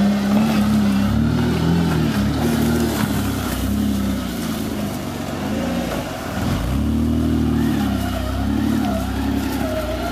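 Off-road trial truck's engine revving up and down under load as it works an obstacle, with a dip about six seconds in and a fresh rev just after.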